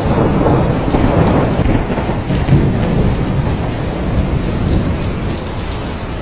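Steady heavy rain with rolling thunder, the low rumble loudest in the first half and fading toward the end.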